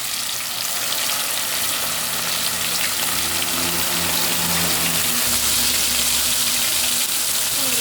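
Flour-coated chicken breastbones frying in hot vegetable oil in a pot, a steady sizzle.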